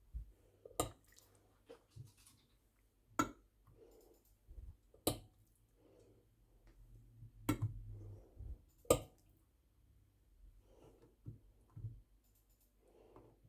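Kitchen handling sounds: several sharp clicks and light knocks of utensils and dishware, the loudest coming every couple of seconds through the first nine seconds, then sparser and fainter, with soft rustling in between.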